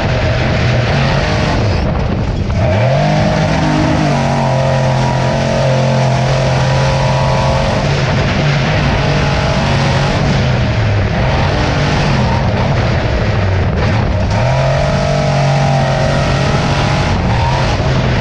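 Off-road race truck's engine under load on a dirt track. The engine note climbs a few seconds in and holds steady, falls back about eleven seconds in, then climbs and holds again before easing off near the end.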